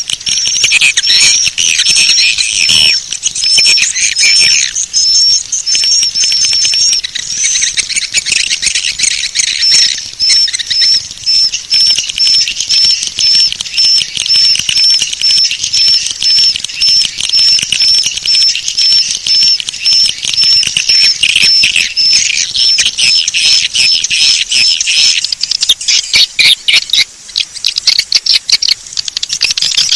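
Swiftlet call recording, the lure sound played to draw edible-nest swiftlets: dense high twittering and clicking chirps, with a short high chirp repeating about twice a second that drops out near the end.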